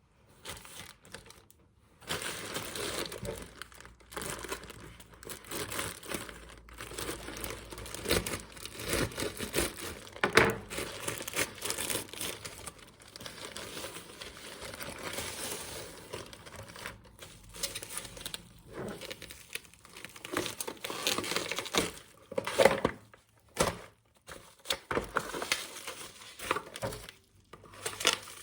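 Packaging being handled and unwrapped: crinkling and rustling in irregular bursts with some tearing, pausing briefly a few times.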